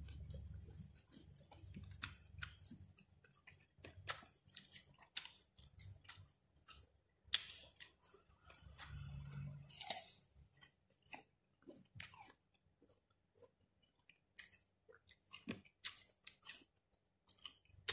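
Close-up chewing of rujak fruit pieces coated in thick rujak sauce: quiet wet mouth clicks and small bites scattered throughout, with a brief low hum about nine seconds in.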